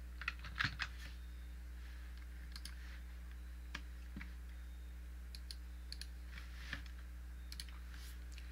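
Scattered single clicks of a computer mouse and keyboard, a few close together near the start and then one every second or so, over a steady low electrical hum.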